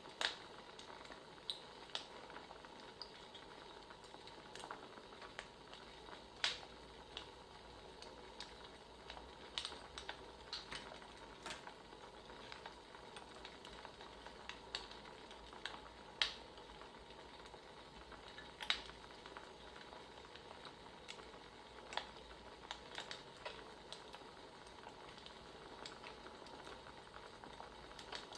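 Wood fire crackling: a faint, steady hiss with sharp pops at irregular intervals.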